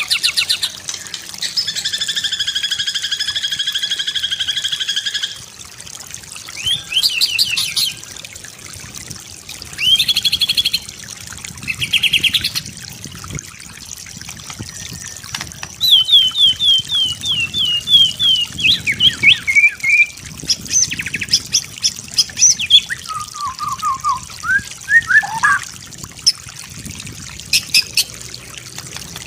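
White-rumped shama (murai batu) singing a varied song. It holds a buzzy note for about four seconds, gives short rattling trills, then sings a quick run of falling whistles and some lower whistled notes.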